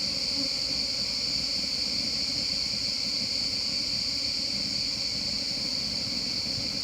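Steady, high-pitched drone of forest insects, unbroken throughout, over a low hum of wild honeybees swarming around an opened nest.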